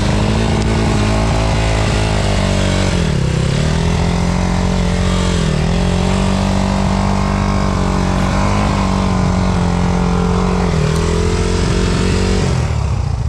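Enduro motorcycle engine held at high revs, briefly dipping and recovering about three times, then the revs fall away near the end.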